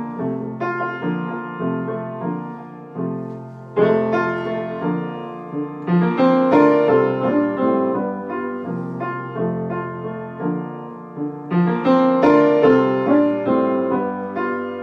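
Solo piano playing chords, the introduction to a song before the singing comes in, with groups of fuller, louder chords struck several times.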